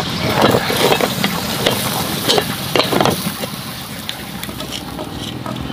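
Cooking sounds: food stirred and scraped in a hot pan, sizzling, with irregular scrapes busiest in the first three seconds.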